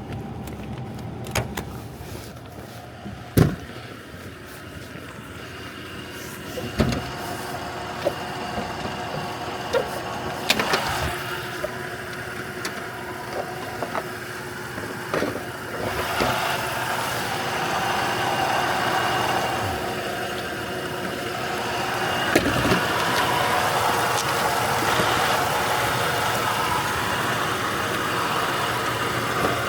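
A few sharp knocks and clunks, then from about halfway a steady motor sound that comes in louder and keeps running.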